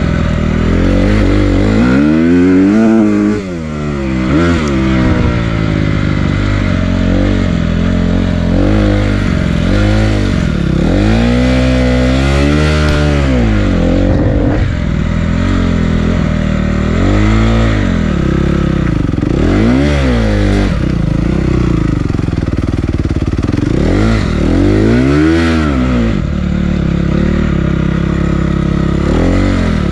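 Honda CRF250R dirt bike's single-cylinder four-stroke engine being ridden, revving up and dropping back again and again, its pitch climbing and falling every couple of seconds.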